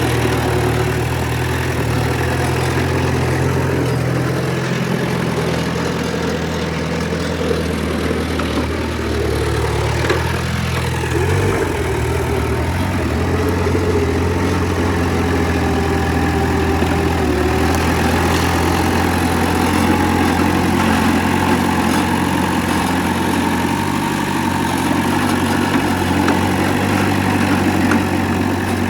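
Diesel engine of heavy earthmoving machinery running steadily at low revs, with a brief change in engine pitch about eleven seconds in.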